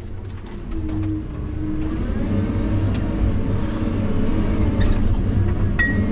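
Vehicle engine running steadily, fading up after a cut, with a brief high beep near the end.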